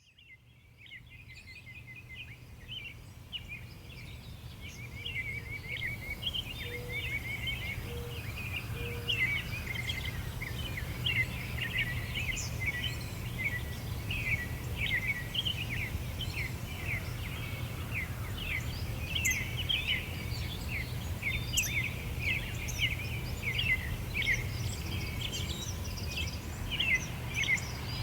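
A chorus of small songbirds chirping and twittering rapidly and continuously, over a steady low rumble. The sound fades in from silence over the first few seconds.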